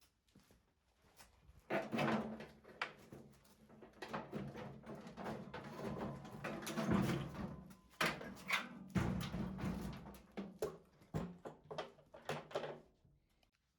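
Irregular knocks, clicks and scraping of washing-machine parts being handled and worked on during disassembly, starting about two seconds in and dying away near the end.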